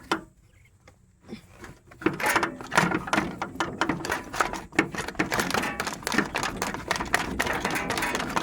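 Rapid, irregular metallic clicking and rattling from hand work on a lawn tractor engine, as a wedged part is worked back and forth, starting about two seconds in.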